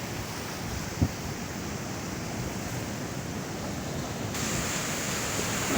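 Sea waves washing on the shore, with wind rumbling on the microphone. There is a single short knock about a second in.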